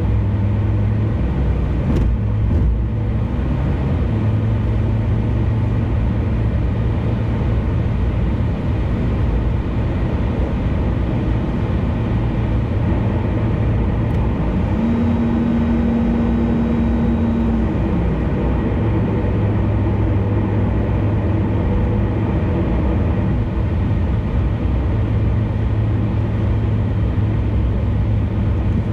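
Car driving at expressway speed: steady road and engine noise with a low drone. For about three seconds around the middle a steady higher hum joins in, then drops away.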